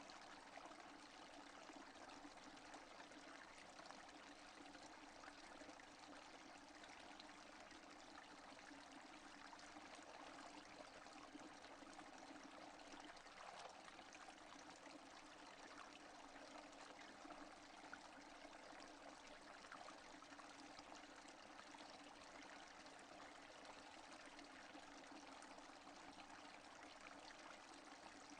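Rain falling steadily, without thunder: a faint, even hiss of countless small drops.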